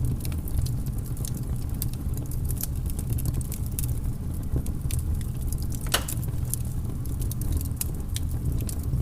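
Wood fire crackling, with irregular small pops over a steady low rumble and one sharper pop about six seconds in.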